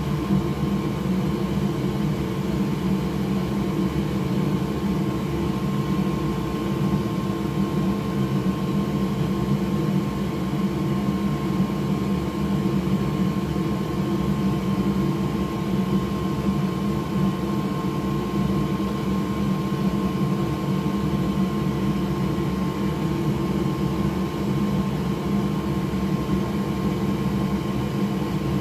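Steady whir of an electric fan motor, with a few constant humming tones and no change throughout.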